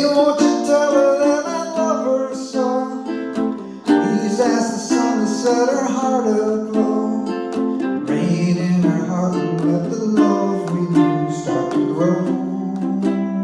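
Ukulele strumming chords with voices singing along.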